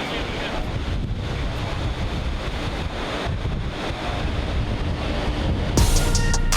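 Wind buffeting the microphone over the rush of ocean surf, a gusty, steady noise. Music comes in near the end.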